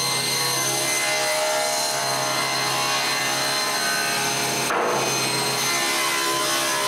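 Table saw ripping a cedar plank with its blade tilted to a 15-degree bevel: a steady sound of motor and blade cutting through the wood, with a brief change about two-thirds of the way through.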